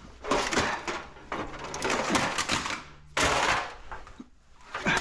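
Handling noise: several bursts of clattering and scraping, with scattered knocks, as scrap objects are moved about.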